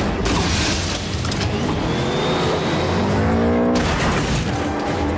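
Car engines revving hard at speed, rising in pitch about two and a half seconds in and cutting off sharply a little before four seconds, in a film car-chase sound mix with a music score underneath.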